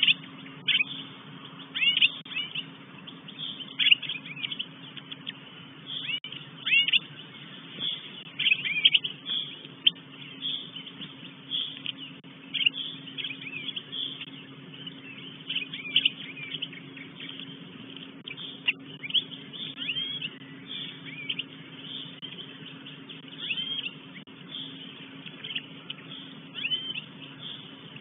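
Short, high-pitched bird calls repeated every second or two, over a faint steady hum.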